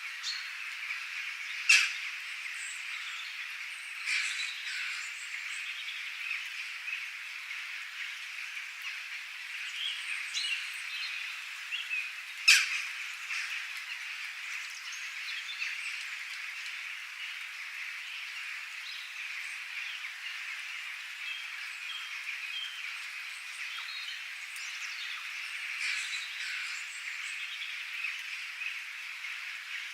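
Wildlife soundscape: a dense, steady chorus of small calling animals with scattered bird chirps over it. Two sharp, loud calls stand out, about 2 seconds and 12 seconds in.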